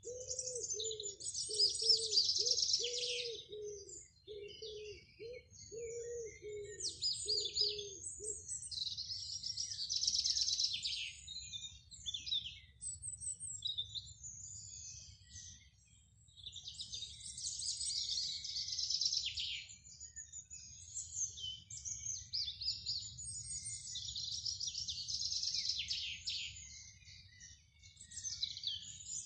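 Garden songbirds singing: loud, fast-trilled song phrases about two seconds long recur every seven or eight seconds, with shorter chirps between them. A low, repeated call runs under them and stops about eight seconds in.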